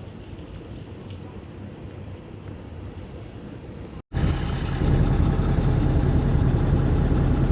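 A low steady rumble that cuts out for an instant about four seconds in and comes back much louder as the steady, even hum of an engine running.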